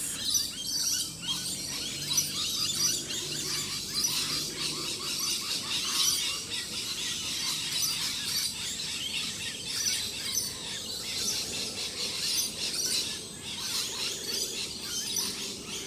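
Many wild birds chirping and calling at once in a continuous, overlapping chorus, with a faint low hum under it in the first few seconds.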